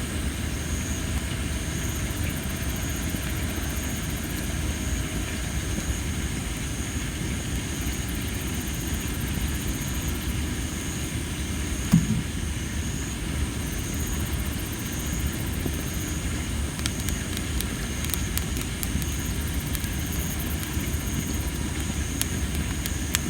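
Campfire of tree-of-heaven (Ailanthus) wood burning with a steady low rumble. One sharp, loud pop comes about halfway through, and a run of small crackles comes near the end; the loud popping is put down to the wood's high moisture. Insects chirp throughout in high, steady tones, with a pulsing call about once a second.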